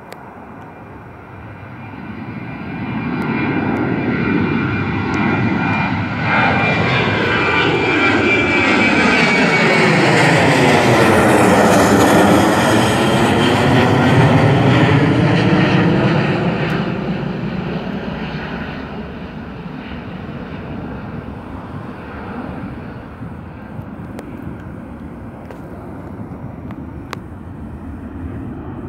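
Jet airliner departing and passing by with engines at climb power. The sound swells over several seconds with a high engine whine that slowly drops in pitch, peaks about halfway through, then fades into a distant rumble.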